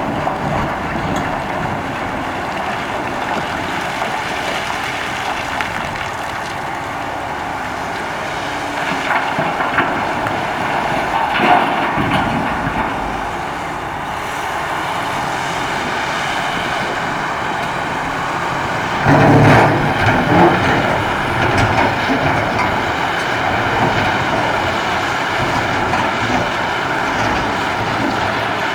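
Caterpillar 6015B hydraulic mining excavator's diesel engine running steadily under load, with louder surges about twelve seconds in and again around twenty seconds in.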